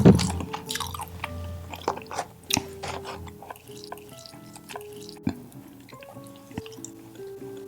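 Close-miked eating sounds: wet chewing and sharp mouth clicks, with a loud thump right at the start, over light background music.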